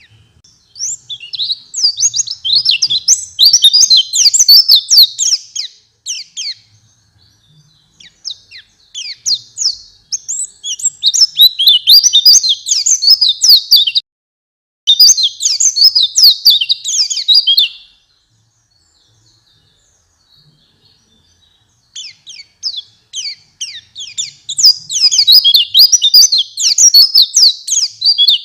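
White-eye (pleci) singing a fast, high-pitched twittering song in four long bursts of several seconds each, with short pauses between them.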